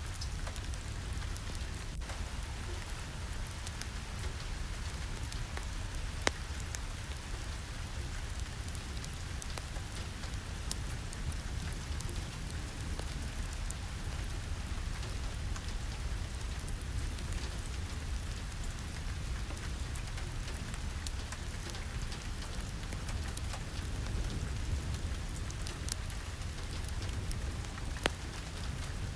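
Steady rain falling, an even rush with scattered sharp ticks over a low rumble. Two louder ticks stand out, one about six seconds in and one near the end.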